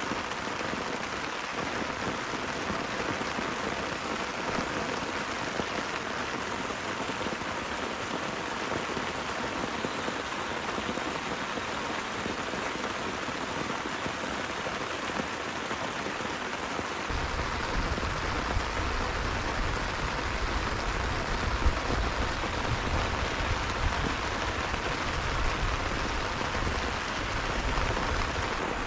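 Heavy rain falling steadily. About two-thirds of the way in, a deep low rumble comes in and carries on underneath the rain.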